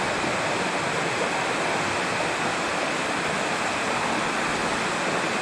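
A mountain creek's water flowing steadily through a stone and concrete tunnel: an even, unbroken rushing noise.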